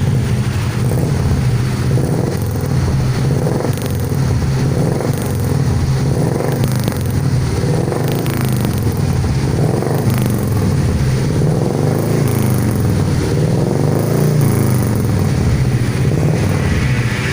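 Carburetted Suzuki Futura engine running through a newly fitted 4-3-1 header and HKS muffler, a steady exhaust note that rises and falls a little.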